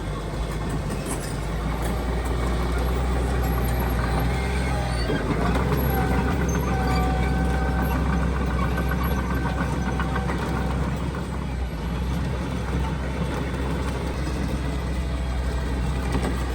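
Heavy diesel construction machine running steadily, with a high, steady whine joining in about five seconds in and fading out about eleven seconds in.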